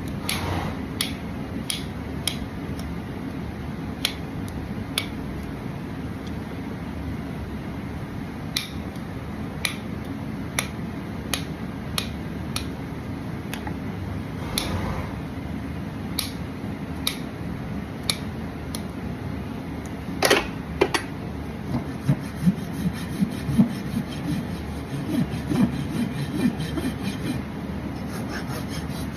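Farrier's hand tools working a horse's hoof during a trim: sharp clicks about once a second, two louder snaps a little past two-thirds of the way in, then rougher scraping against the hoof toward the end, over a steady low rumble.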